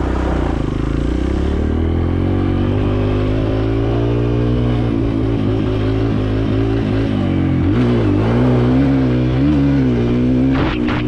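Kawasaki KLX 140L dirt bike's single-cylinder four-stroke engine running under way at a steady speed, then revving down and up several times near the end.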